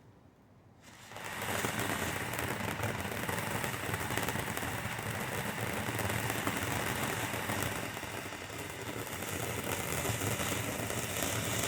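Vibrant Voltage consumer fountain firework bursting into life about a second in, then spraying with a steady loud hiss shot through with fast crackling.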